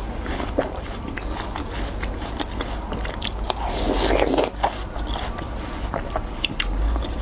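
A person biting and chewing watermelon close to the microphone: scattered short wet clicks, with one louder, longer bite about three and a half seconds in, over a steady low hum.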